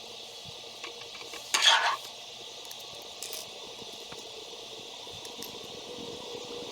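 Small plastic building pieces clicking and rattling against one another as a set is assembled, with one brief rustling burst about a second and a half in.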